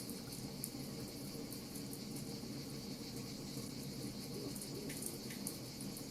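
Wood fire crackling: frequent small sharp pops and ticks over a steady high hiss and a low, even rumble.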